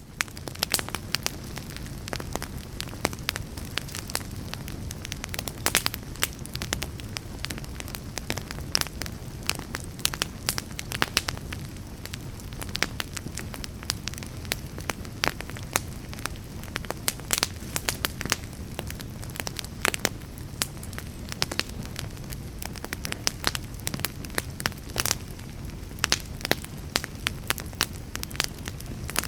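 Wood fire burning, with frequent sharp crackles and pops at irregular moments over a steady low rush of the flames.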